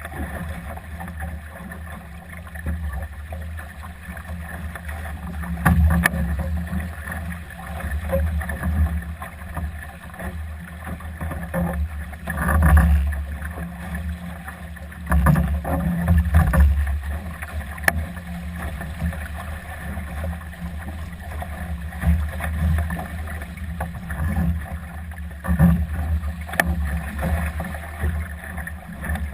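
Wind and water noise aboard a Solo sailing dinghy under way in strong, gusty wind: wind buffeting the microphone and water rushing along the hull, surging louder several times.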